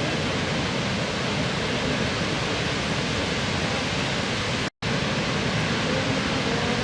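Waterfall: a steady, even rush of falling water. The sound cuts out for a split second a little over halfway through.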